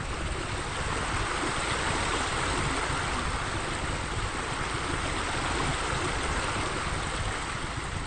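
Steady rushing, splashing water, such as a pool's water feature, over a low wind rumble on the microphone.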